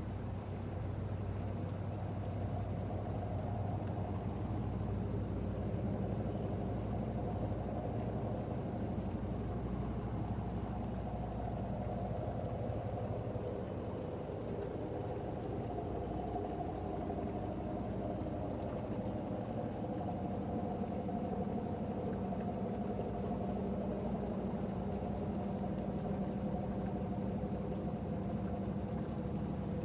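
An engine idling with a steady, even hum that holds several low tones.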